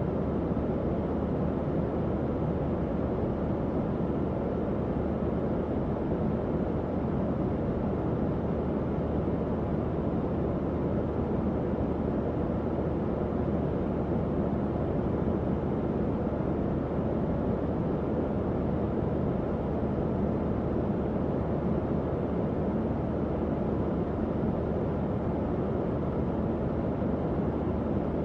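Tower fan running steadily: an even airflow whoosh, mostly low and mid in pitch, that never changes.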